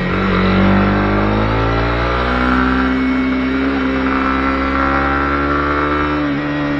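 Honda CB250R single-cylinder engine running on the move. Its pitch drops at the start, climbs again about two seconds in, then holds fairly steady.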